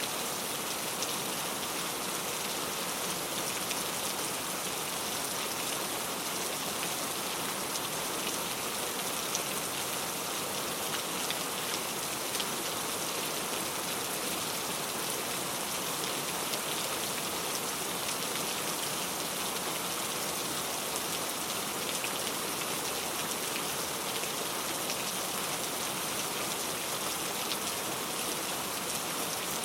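Steady rain falling, a dense even hiss of drops with fine individual drop ticks throughout.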